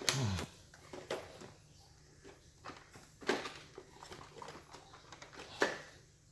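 Hard plastic clicks and knocks as a robot vacuum's stiff, snug-fitting dust bin is worked loose from its housing. There are three sharper clicks spaced a couple of seconds apart, with handling scuffs between them.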